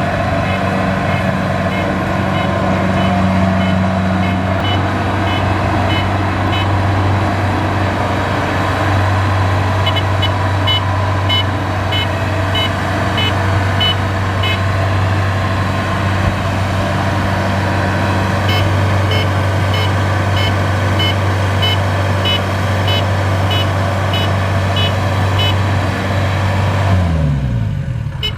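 Kubota DC-70 combine harvester's diesel engine running steadily under load, with a high warning beeper sounding about twice a second in several stretches. Near the end the engine speed drops sharply and its note falls away.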